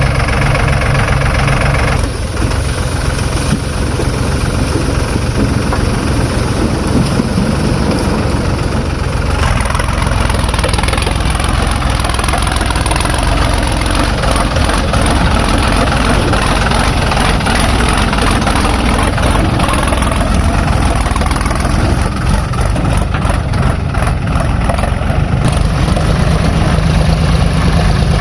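Heavy diesel engine of a JCB 3DX backhoe loader running under working load, with its tone changing about two seconds in and again around ten seconds in.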